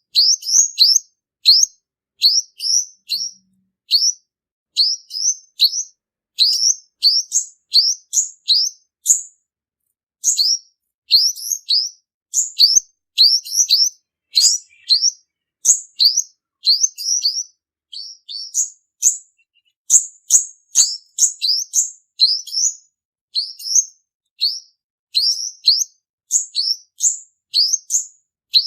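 Male olive-backed sunbird (purple-throated sunbird) singing: a rapid run of high, thin, upward-sweeping chirps, several a second, in bursts with brief pauses. This is the male's song as it is used to lure sunbirds into traps.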